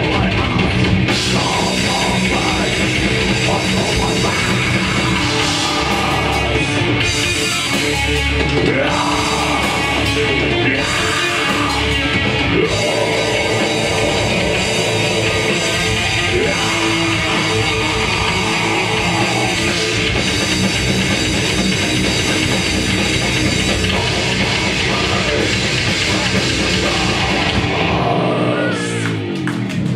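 Death metal band playing live: heavily distorted guitars and drum kit at full volume. Near the end the full band drops away.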